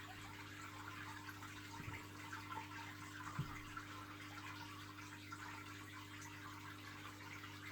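Quiet room tone: a steady low hum under a faint hiss, with a couple of soft thumps.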